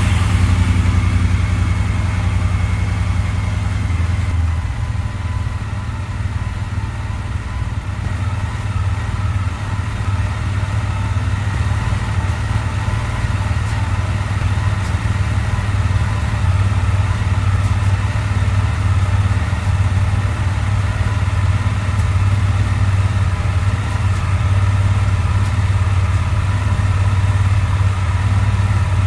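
Triumph Speedmaster 1200's parallel-twin engine idling steadily just after starting, a loud, even low rumble.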